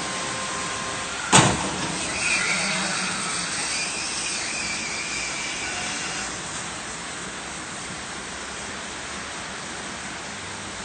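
Steady road and engine noise from a car, broken about a second and a half in by one sharp bang of a collision, followed by a brief screech for about a second.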